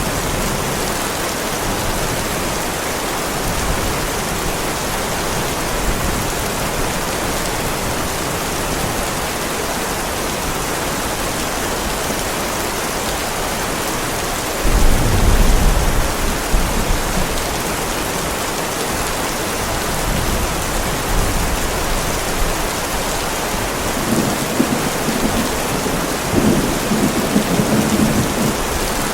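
Heavy rain falling steadily on a paved driveway, a constant hiss of drops. Low thunder rumbles in about halfway through and again near the end.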